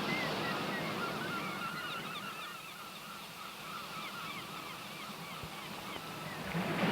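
A flock of birds calling: many short calls repeated in quick succession over a steady background hiss, fading out near the end.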